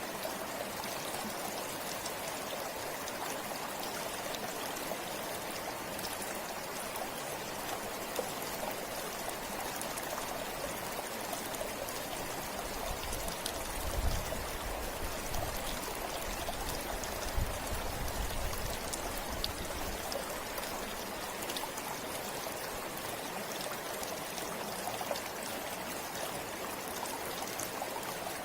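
River water flowing in a steady rush, with a low rumble that swells a few times about halfway through.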